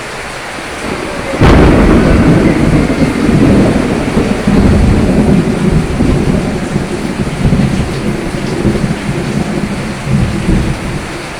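Steady rain, with a sudden crack of thunder about a second and a half in that rolls on as a long low rumble and slowly eases off.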